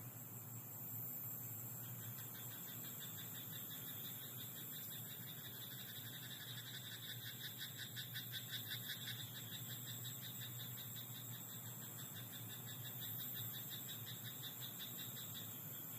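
Frogs croaking in a rice paddy: a rapid pulsed chorus that swells about midway and eases off near the end, over a steady high-pitched drone.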